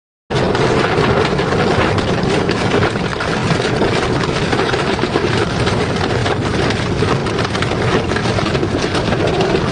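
Double-shaft industrial shredder running and chewing through metal: a loud, dense, steady grinding full of small cracks and crunches, starting abruptly.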